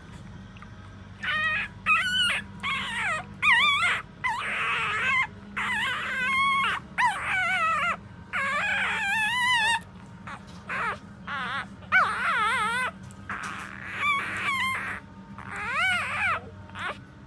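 Four-day-old puppies whimpering and squealing: a quick, near-continuous run of short, high, wavering cries that starts about a second in.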